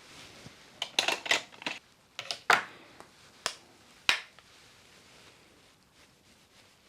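A quick run of sharp plastic clicks and clacks, about a dozen in the first four seconds, from makeup compacts, cases and brushes being handled and set down, then quieter handling.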